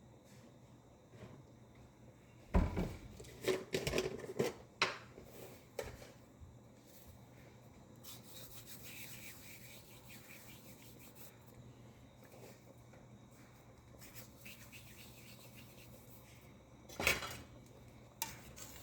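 Kitchen utensils on a cooking pot: a cluster of sharp clattering knocks a few seconds in, then a soft rustling rub, and one more knock near the end.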